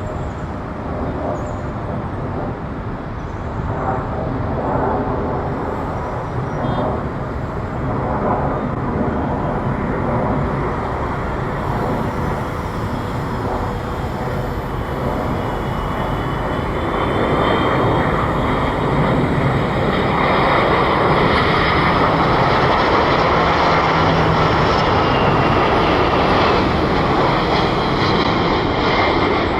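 Boeing 737 jet engines at go-around power: a steady roar with a high whine on top, growing louder about two-thirds of the way through.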